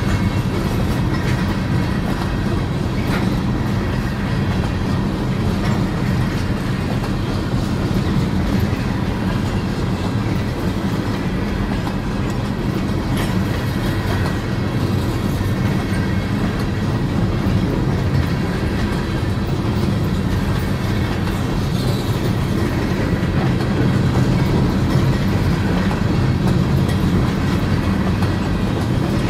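Kansas City Southern de México freight train's gondola cars rolling past, a steady loud rumble of steel wheels on rail with occasional clicks and clatter.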